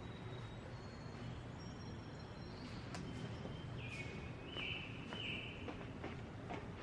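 Woodland bird singing a series of clear, held whistled notes at stepped pitches, the loudest about four to five and a half seconds in, over steady outdoor background hiss, with a few faint ticks.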